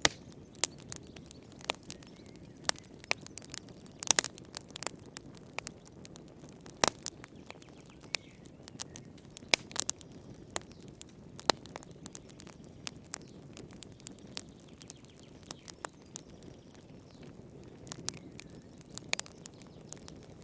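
Wood fire burning in a fireplace: irregular sharp crackles and pops over a low, steady sound of the flames.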